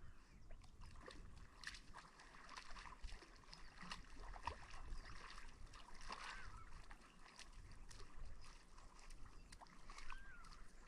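Faint, quiet outdoor ambience with soft scattered ticks and a couple of brief distant bird calls.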